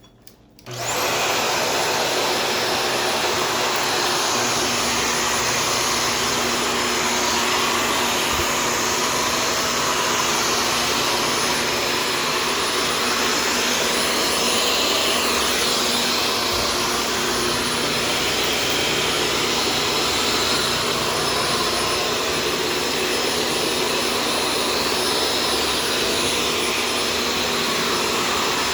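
Shark Stratos vacuum cleaner switching on about half a second in, then running steadily at full power with a steady high whine over its motor noise.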